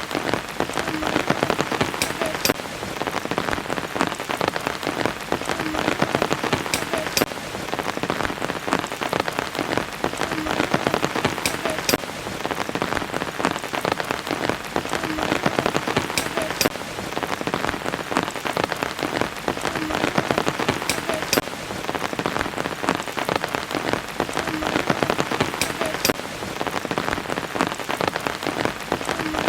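Steady rain, with many separate drops ticking on surfaces close by over an even hiss. The same stretch of rain repeats about every five seconds, as a looped recording does.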